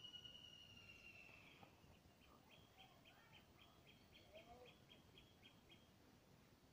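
Faint birdsong: one long, even whistled note, then a quick run of about a dozen short, high repeated notes, about three a second, with a few softer lower chirps.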